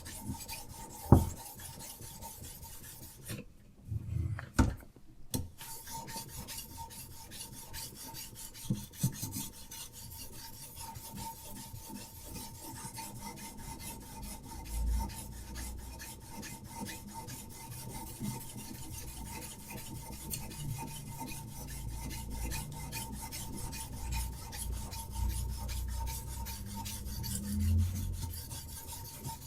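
Diamond sharpening stone on a Hapstone RS guided knife sharpener rasping back and forth along a knife blade in rapid strokes. A sharp knock comes about a second in, and the strokes pause briefly about three and a half seconds in.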